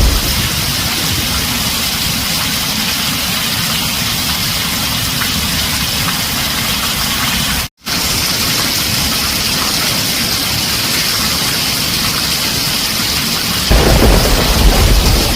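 Heavy rain falling on a tin roof, a dense steady hiss. The sound cuts out for a split second about eight seconds in, and a deep rumble of thunder comes in near the end.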